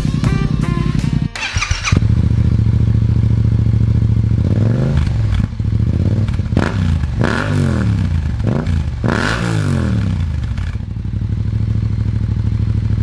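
Yamaha MT-07's parallel-twin engine through a full Akrapovic exhaust system with the baffle still in, idling loudly, then blipped up and down about five times in quick revs before settling back to idle.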